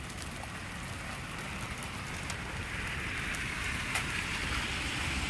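Steady rain falling, picking up a little about halfway through.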